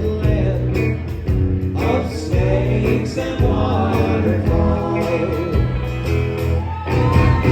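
Live country band performing a song, with singing over the instruments.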